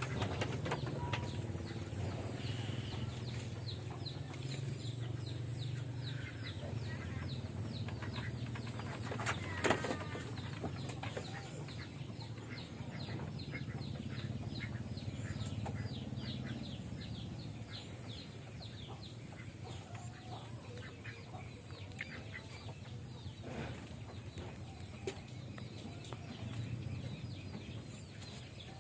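Birds chirping in quick runs of short falling peeps for much of the time, over a low steady rumble, with one sharp knock about ten seconds in.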